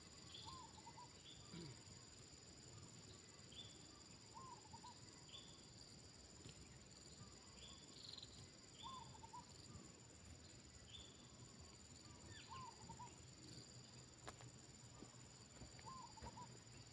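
Faint spotted dove cooing, short wavy phrases repeated about every four seconds, over a steady high insect drone and scattered small chirps.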